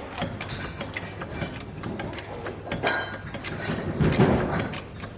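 Hand-tool work on metal parts: a run of small irregular metallic clicks and ticks, with a sharper clank about three seconds in and a duller heavier knock near the end.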